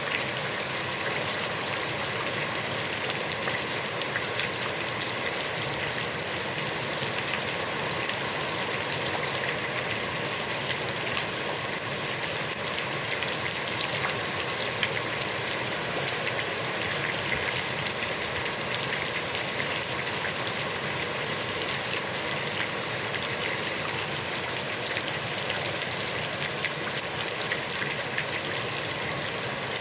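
Heavy rain falling steadily on the surface of a pond: a dense, even hiss with countless individual drops ticking through it.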